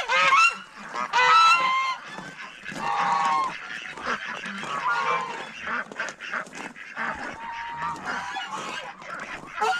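Farm waterfowl honking loudly several times in the first two seconds, then a steady mix of quieter overlapping calls.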